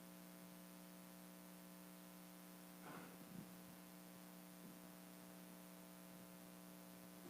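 Near silence: a faint steady electrical hum and hiss from the sound system.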